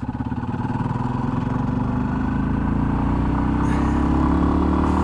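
Yamaha XT250's single-cylinder engine accelerating under way, its pitch rising over the first few seconds and then holding steady.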